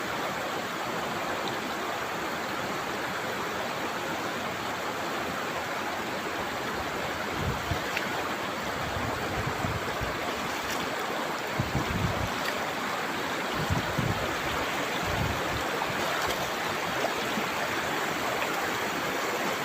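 Fast-flowing river water rushing steadily over rocks, with a few dull low thumps in the middle.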